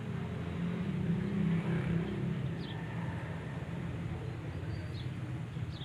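Kala 22 HP slow-speed diesel oil engine running steadily at about 300 RPM, a continuous low chugging drone.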